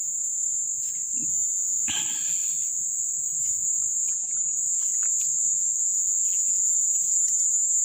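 Steady high-pitched chorus of insects, with a brief noise about two seconds in.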